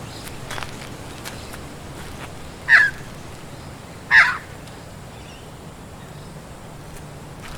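A bird calls twice, loud and short, about a second and a half apart, over a steady rush of wind in the trees.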